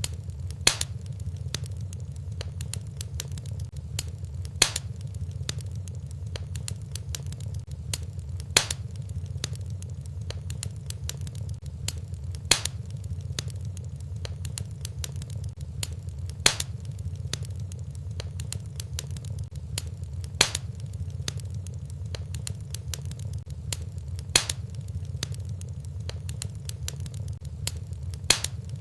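Fireplace fire crackling over a steady low rumble, with a louder pop about every four seconds.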